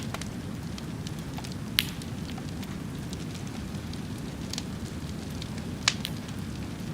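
Fire burning with a steady low rumble and scattered sharp crackles and pops, two of them louder, about two seconds in and near the end.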